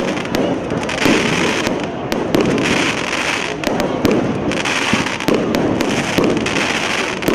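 Large outdoor bonfire crackling, with frequent sharp pops and snaps at irregular intervals over a continuous rushing noise, and voices in the background.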